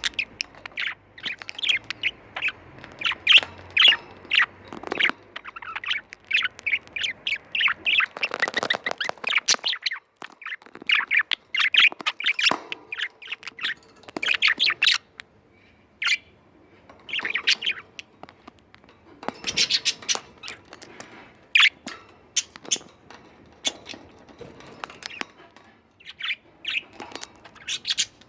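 Budgerigars chirping and chattering in quick runs of short, sharp calls, thick for the first half and more scattered after about halfway.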